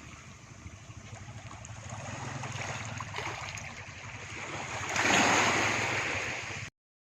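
Speedboat running on the sea: a low steady engine drone under a rush of water and wind, which swells much louder about five seconds in, then cuts off suddenly near the end.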